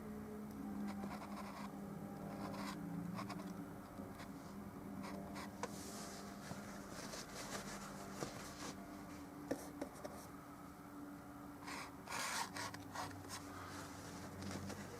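Paintbrush strokes laying oil paint onto a small canvas: a run of short scratchy rubs with pauses, a couple of louder strokes near the middle and again later, over a faint steady hum.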